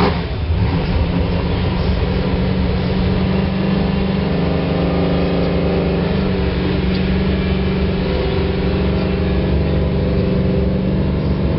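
V8 engine of a Race Car Series stock car idling steadily.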